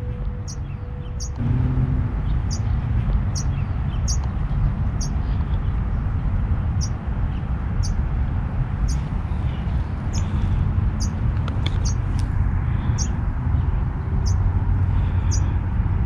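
A small bird repeating a short, high-pitched chirp about twice a second, steadily, over wind rumbling on the microphone.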